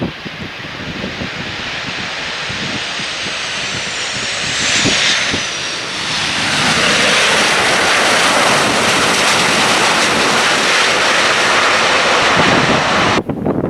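Airliner engines on a landing pass: a rising roar with a high whine that falls in pitch as the aircraft goes by, then a loud steady engine roar that cuts off abruptly near the end. Wind buffets the microphone at the start.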